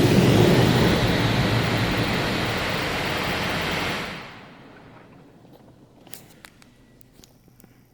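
LaserWash 4000 touchless car wash running, a loud steady rush of spray or blown air that eases a little about a second in, then dies away about four seconds in, leaving only a few faint clicks.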